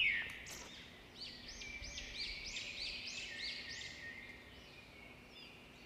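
A bird singing outdoors: a quick run of about eight repeated high notes, each rising then falling, from about a second in until about four seconds in, over faint outdoor background noise.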